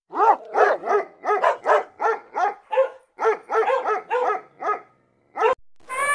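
Puppy yapping: a quick run of high-pitched yaps, about three a second, then one last yap after a short pause.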